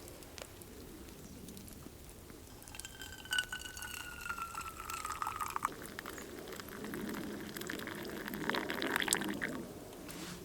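Liquid being poured, with a pitched tone that slowly falls for about three seconds, followed by a run of small clicks and splashing noise.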